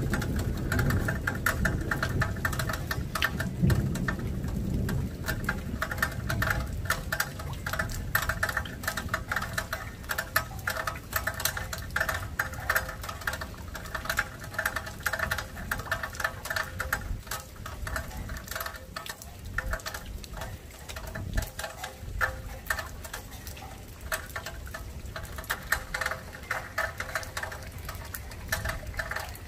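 Light rain pattering and dripping: a dense, irregular run of small ticks and drops. A low rumble underneath is heaviest in the first few seconds and then fades.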